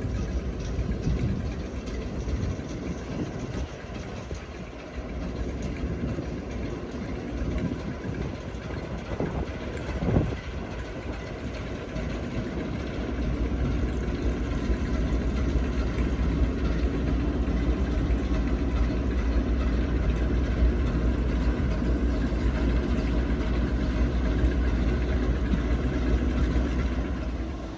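A train running, with a steady low rumble and an engine hum. It grows louder about halfway through and drops off suddenly at the end. There is a single sharp knock about ten seconds in.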